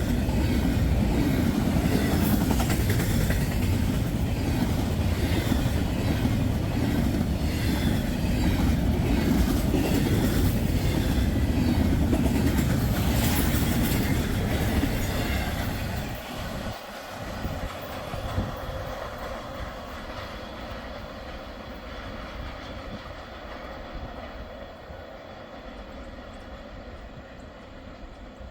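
Intermodal freight train rolling past, wheels clicking over the rail joints. About halfway through the sound drops sharply as the end of the train goes by, then fades away.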